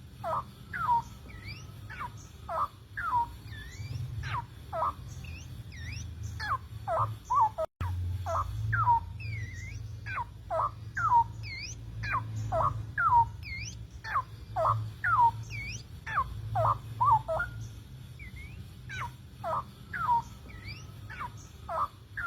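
Male straw-headed bulbul (cucak rowo) singing its courtship song to a female: a run of short, clear whistled notes that sweep down and up, one or two a second, over a steady low hum.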